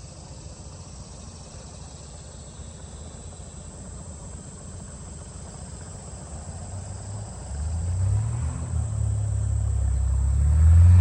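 A boat engine running with a low hum that grows steadily louder from about seven seconds in.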